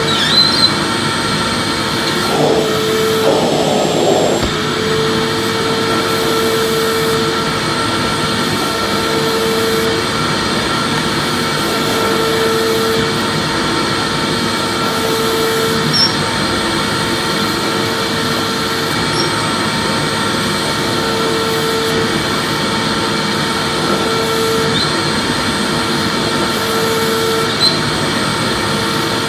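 Vacuum cleaner motor running steadily, a whooshing rush with a whine. A lower hum in it swells and fades about every two seconds.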